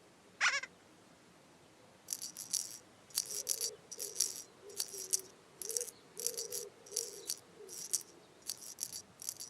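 Shaker-like rattling in short bursts, roughly one or two a second, over a soft wavering low tone. It follows a single quick whistle-like swoop that rises and falls about half a second in.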